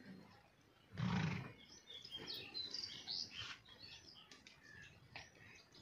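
Small birds chirping, short high calls in quick succession, with a short loud burst of noise about a second in.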